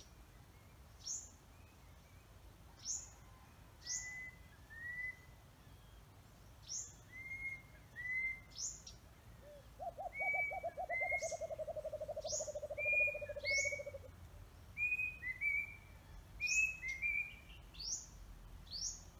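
Pisoten bird calling over and over, about a dozen times: each call is a short arched whistle with a very high, sharp upward-flicking note. In the middle a lower, rapid rattling trill runs for about four seconds.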